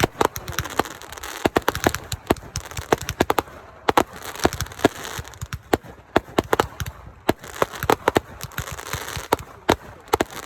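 Consumer fireworks going off: a rapid, irregular run of sharp bangs and crackles, with a hiss between them.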